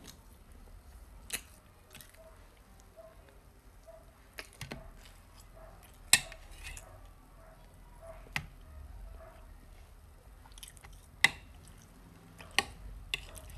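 A child chewing a pancake, with sharp, wet mouth clicks and smacks at irregular moments, about seven in all. The loudest come about six and about eleven seconds in.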